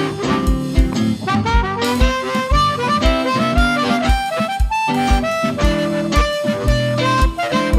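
Live blues band playing an instrumental passage: a melodic lead line over guitar and bass, with a steady kick drum at about two beats a second.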